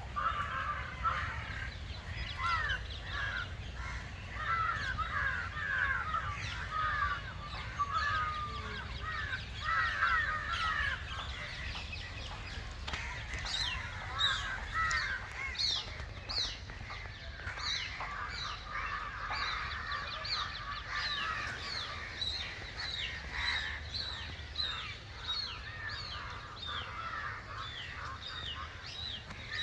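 A chorus of many birds calling at once: dense, overlapping short chirps and calls. From about halfway through, higher, thinner calls join in.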